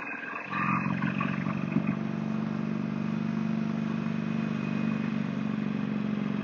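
Motorcycle engine under way: it drops off briefly at the start, then comes back on and runs at a steady pitch.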